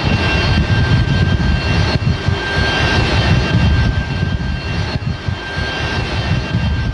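Aircraft engine running loud and steady on a carrier flight deck: a heavy rumble with a steady high whine over it.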